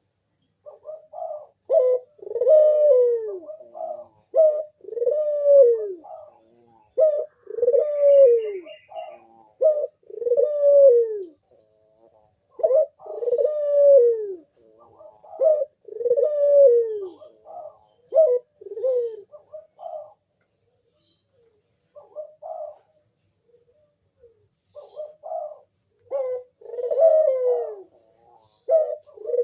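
Barbary dove (burung puter) cooing: a long run of melodious, falling coos, about one every second and a bit, with a pause of a few seconds before the series picks up again.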